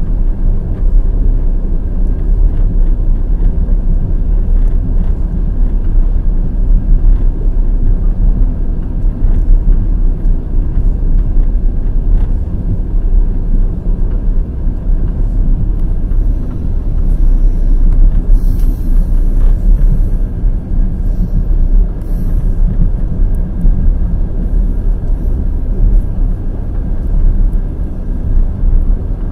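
Passenger train wheels running on the rails at speed, a steady heavy rumble with faint clicks of wheel clatter. A short burst of higher hiss comes about two-thirds of the way through.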